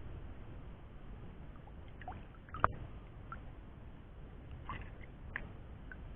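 Faint water sloshing and trickling around a wading angler's legs in shallow reservoir water, with a few small splashes and one short, sharp sound about two and a half seconds in.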